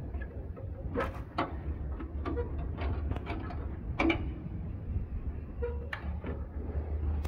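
Scattered knocks, clicks and clunks of things being handled, over a steady low rumble; the sharpest knocks come about a second in and about four seconds in.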